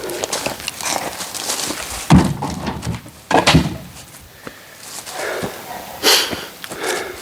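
Oak firewood being handled: irregular knocks and scraping, with two heavier thumps about two and three and a half seconds in.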